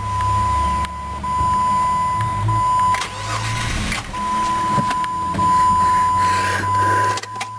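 A steady high-pitched electronic warning beep that cuts out for about a second near the middle, over a low steady hum. It comes during a failed jump-start of a 2004 Jeep Grand Cherokee with a dead battery and a bad jumper-box connection.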